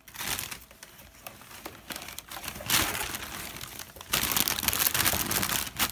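Wrapping paper crumpling and crinkling in bursts: a short one at the start, another about three seconds in, and a longer, louder spell from about four seconds in.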